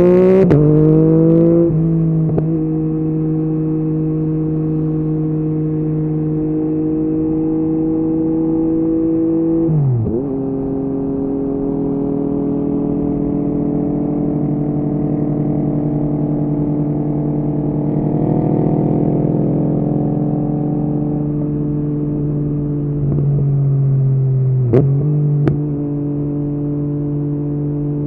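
Yamaha MT-09's three-cylinder engine through an Akrapovic exhaust, heard from the rider's position: it revs up around the start and then holds a steady pitch. About ten seconds in the revs drop sharply and settle lower, and near the end they dip again with two sharp clicks.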